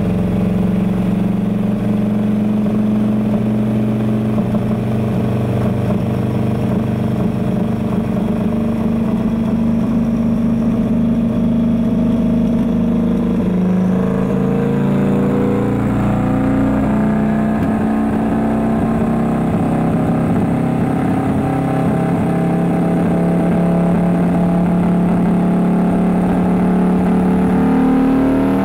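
Turbocharged Harley-Davidson V-Rod's liquid-cooled V-twin running on a dyno at a steady, held engine speed. The pitch dips briefly about halfway through, then holds steady again and creeps up slightly near the end.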